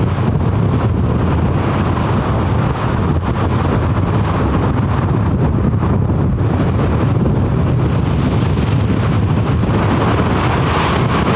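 Gale-force storm wind buffeting the microphone: a steady, loud, low rumble of wind noise.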